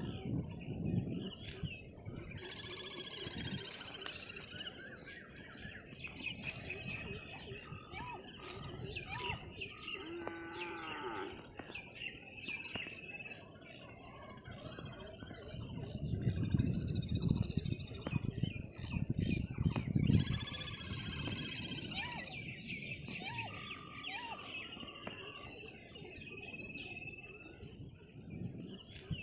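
Morning countryside ambience: several birds calling and chirping over a steady high-pitched drone of insects, with a pulsing cricket-like chirring. Some low rumbling swells in about two-thirds of the way through.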